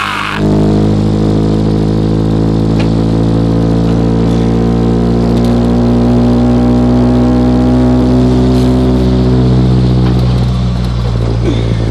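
Ford Ranger pickup's engine running under way with its exhaust off, a loud, steady drone with a deep hum that holds for about ten seconds and eases off near the end.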